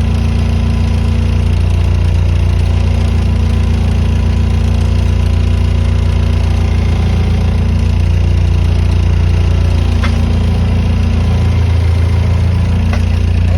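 Skid loader engine running steadily with an even, low drone and a slight shift in its tone about eleven seconds in.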